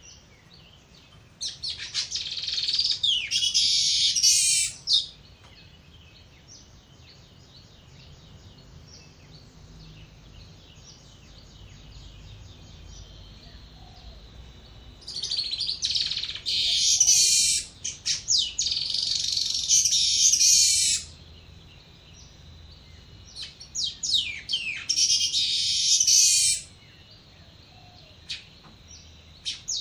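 Weaver birds (manyar) singing: bursts of fast, buzzy chattering song lasting three to four seconds, about four times, with quieter gaps between them in which a faint steady high tone continues. It is a recorded song used as a lure call for weavers.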